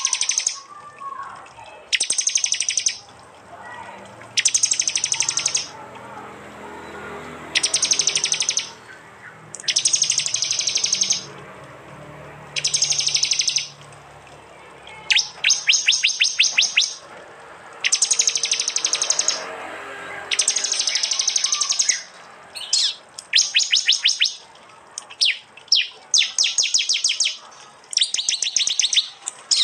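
Prenjak (prinia) call-bursts, the rapid 'tembakan' shots used as bird-training recordings: loud, high, fast trains of dry notes lasting about a second each, repeated roughly every two seconds. In the second half the bursts come closer together and choppier.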